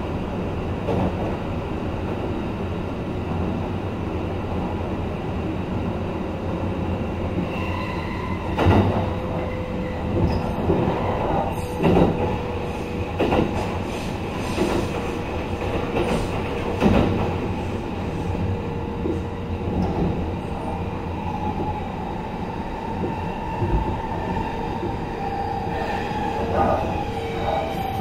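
Running sound of a Kintetsu 23000 series Ise-Shima Liner electric train: a steady rumble of wheels on rail, with several sharp rail-joint knocks between about 9 and 17 seconds in. A steady high whine sets in from about 8 seconds in and carries on over the rumble.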